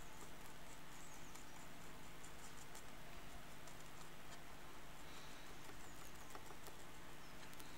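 Faint scratching and small scattered ticks of a paintbrush tip scraping at the paint on a 3D-printed plastic mask, lifting paint chips off a hairspray layer softened with water. A low, steady hum sits underneath.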